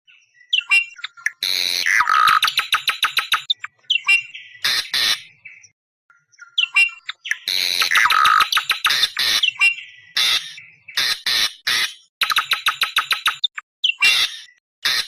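Awar-awar bird calling: loud, harsh screaming calls, each a rapid series of pulses, coming in repeated bouts with short pauses between them. This is the call that trappers play as a lure for wild awar-awar.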